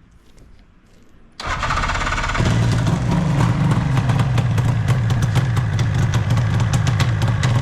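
1972 Suzuki GT750's water-cooled two-stroke three-cylinder engine starting from cold on choke. It fires suddenly about a second and a half in and settles into steady running about a second later.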